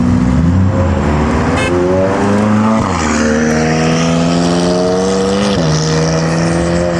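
A modified car accelerating hard away, its engine pitch climbing steadily and dropping sharply at two upshifts, once near three seconds in and again past five and a half seconds.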